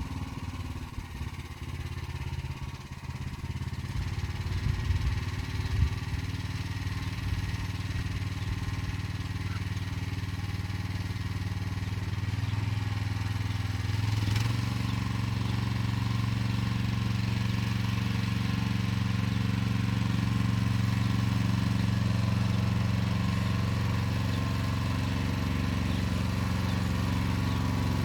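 Motor Sich walk-behind tractor engine running steadily while hilling rows with an arrow-type hiller, with a few irregular knocks early on; a little before halfway the engine note steps up and then holds steady.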